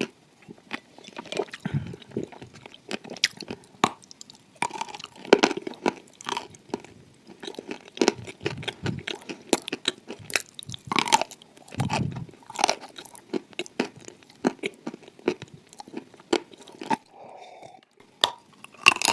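Close-miked biting and chewing of hard clay, with frequent irregular sharp crunches and cracks, quieting briefly near the end.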